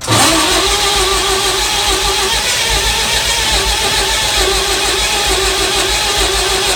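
Murphy diesel engine being cranked over by its starter: a steady whine over a pulsing low rumble of compression strokes. It starts suddenly and keeps turning without catching.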